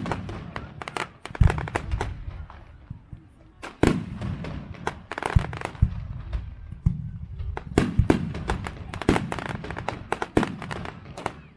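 Aerial fireworks display: shells bursting in rapid volleys with crackling and echoing booms. Denser clusters of bangs come about four seconds in and again from about eight seconds on.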